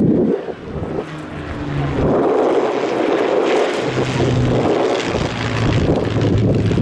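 Aircraft engine noise from a display aircraft flying past. A broad rush swells in about two seconds in and then holds steady.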